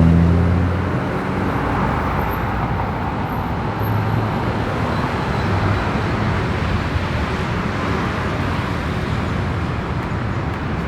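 Steady road traffic noise: the running rush of passing vehicles on a city street, with a low engine hum fading out about a second in.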